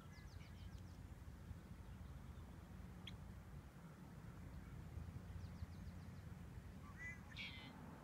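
Faint wild birds calling over a low steady rumble: a quick run of high notes near the start and again past the middle, a single sharp chip about three seconds in, and a louder, fuller call near the end.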